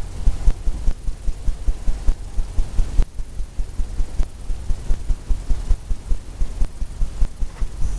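Paintbrush dabbing and tapping on a canvas on an easel: rapid, irregular muffled thumps, several a second.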